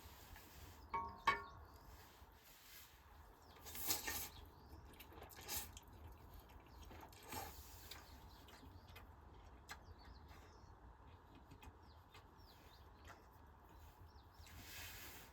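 Quiet ambience with a few brief rustling or handling noises, a short clink about a second in, and faint scattered chirps.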